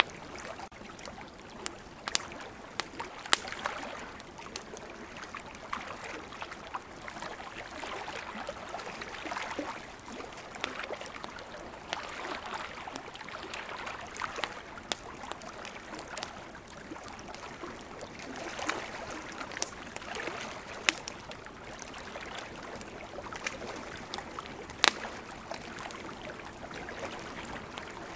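Wood campfire crackling, with frequent irregular sharp pops and snaps over a steady rushing hiss.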